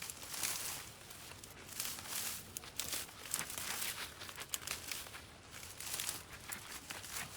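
Irregular rustling, crackling and tearing of vines and brush being pulled and trampled.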